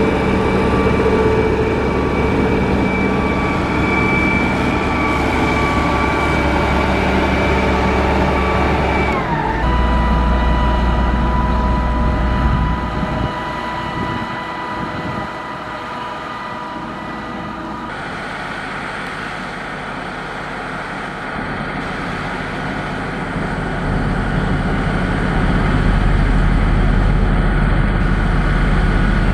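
Heavy diesel engine of a motor grader running steadily, with a high whine over the engine note. About nine seconds in the whine drops in pitch and the sound changes abruptly, and it shifts again about eighteen seconds in.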